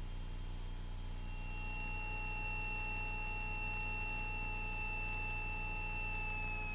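A steady, thin high-pitched tone over a low steady hum in the Cessna 172S Skyhawk's cockpit audio. The tone comes in about a second in and sags slightly in pitch near the end.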